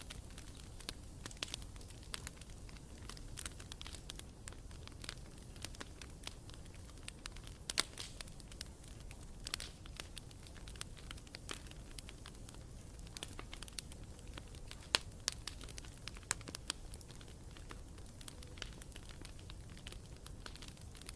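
Campfire burning, with irregular sharp crackles and pops of wood over a low, steady rumble of the flames.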